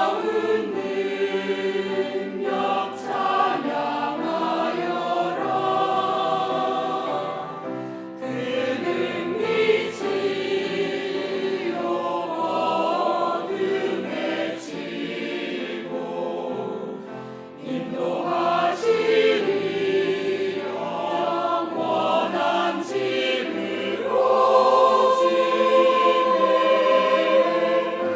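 Church choir singing a Christmas cantata song with instrumental accompaniment, notes held long near the end.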